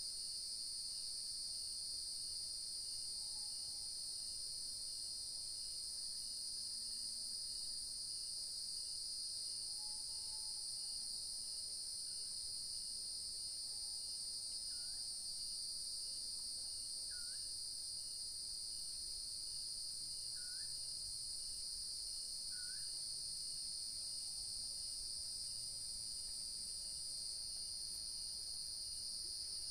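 Steady, high-pitched evening chorus of crickets and other insects shrilling without pause, with a faint regular pulsing beneath it and a few faint short calls midway through.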